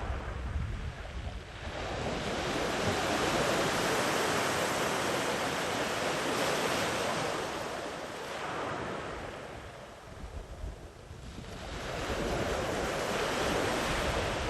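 Sea waves breaking and washing up a sandy beach in two surges: one builds about two seconds in and eases off, and the next comes in after about twelve seconds.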